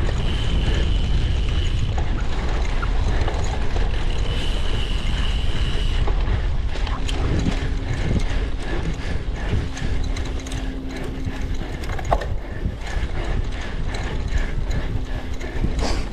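A cyclocross bike being ridden over rough ground: the drivetrain and the freehub ratchet click and rattle over many small knocks from the terrain, under heavy wind rumble on the microphone. A high steady squeal sounds twice in the first six seconds, and a low hum runs through the second half.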